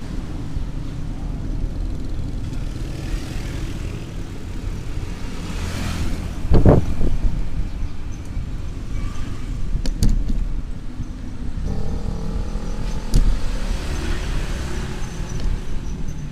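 Road traffic passing over a steady low rumble, with swells as vehicles go by. There is a heavy thud about six and a half seconds in, sharp clicks later on, and a pitched engine hum starting about two-thirds of the way through.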